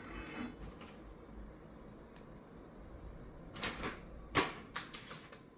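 Tableware being handled: a few sharp clicks and knocks, bunched together in the second half.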